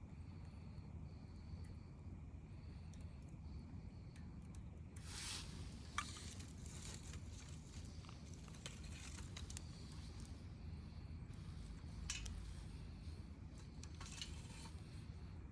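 Wood campfire crackling quietly, with scattered sharp pops (one loud pop about six seconds in) over a low steady rumble.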